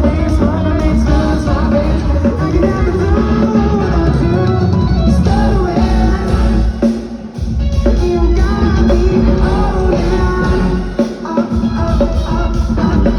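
Live rock band playing: singing over electric guitar and drum kit, loud and continuous, with a brief dip in loudness about seven seconds in.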